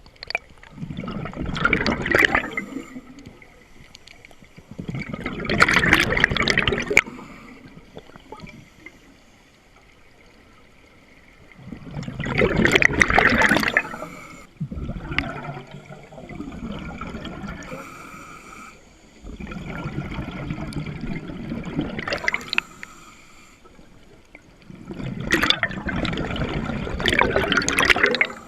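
Scuba diver breathing underwater through a regulator: six rushing bursts of exhaled bubbles, each lasting a second or more, coming every four to five seconds.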